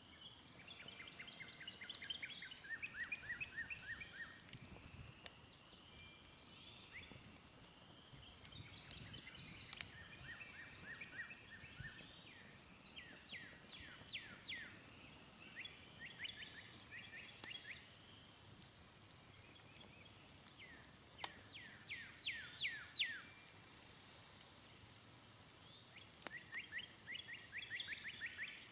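A songbird singing a short, rapid trill of sweeping notes, repeated about six times a few seconds apart, over the faint crackle of a smouldering campfire.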